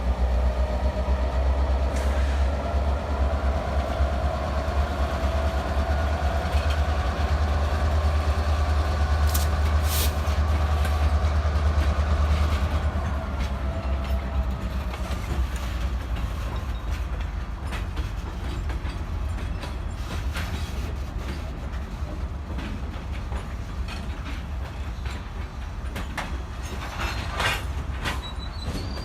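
Freight train rolling past on the rails, a loud, steady low rumble that eases off about halfway through, with sharp clicks from the wheels over the rail joints.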